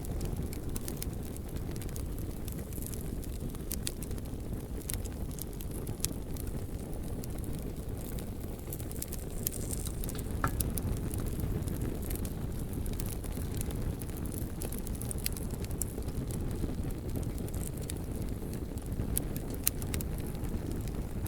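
Bonfire burning: a steady low roar of flames with frequent sharp crackles and pops from the burning wood.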